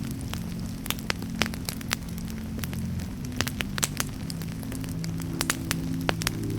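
Campfire crackling: sharp, irregular pops and snaps several times a second, over a low, slowly shifting drone of held tones.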